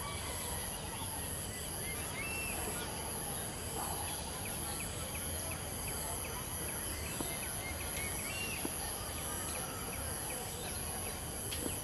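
Outdoor ambience: a bird chirping repeatedly in short notes over a steady high-pitched hiss, with a couple of faint clicks.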